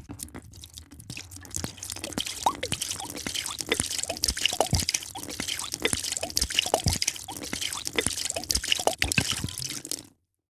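A drink being poured into a glass: dense splashing and crackling with many short rising plinks of drops and bubbles. It cuts off abruptly near the end.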